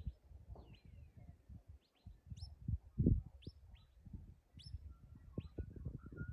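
Wild birds calling: a string of short, sharp chirps, over a low, uneven rumble.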